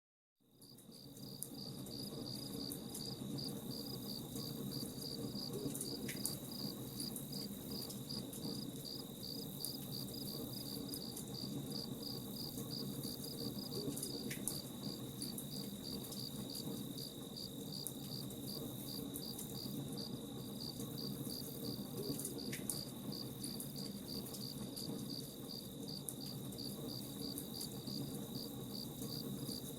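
Crickets chirping in a steady, evenly pulsing trill, over the low hiss and faint pops of a crackling campfire. The sound fades in at the start.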